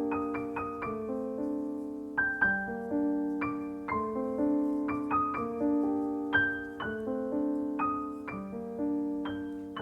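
Background music: a gentle solo piano melody, notes struck about once or twice a second and left to ring and fade.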